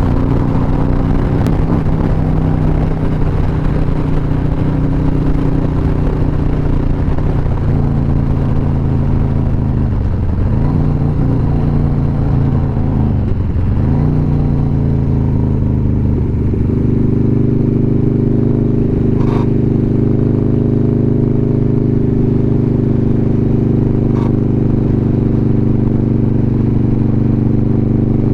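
Motorcycle engine running while riding, with wind noise on the microphone. The engine note dips and comes back twice, about ten and thirteen seconds in, then holds a steady, stronger cruising note from about halfway.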